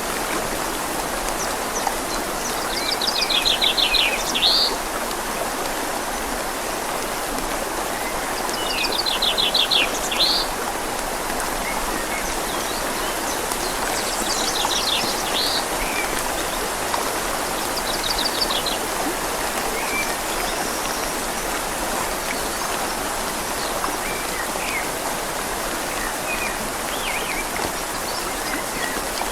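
Steady rush of a flowing river and falling rain. A bird calls in short, rapid trills four times, the first two, a few seconds and about nine seconds in, the loudest.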